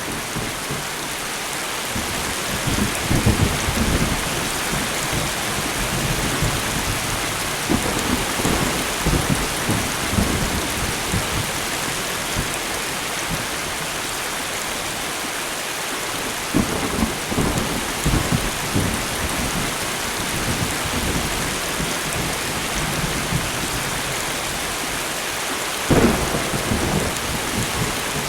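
Steady light rain falling, with rolls of thunder rumbling several times and one sharper, louder thunderclap a couple of seconds before the end.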